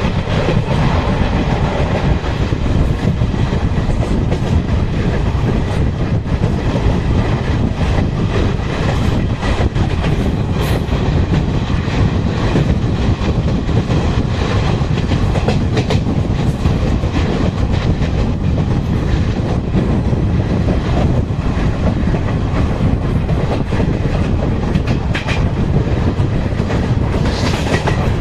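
Passenger train running at speed, heard from an open window or door of a coach: a steady rumble of wheels on the track with scattered clicks of clickety-clack from the rail joints.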